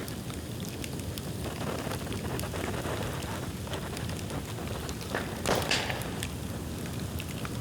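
Dry dead bamboo burning in an open bonfire, crackling steadily, with a louder, sharper pop a little over two-thirds of the way through.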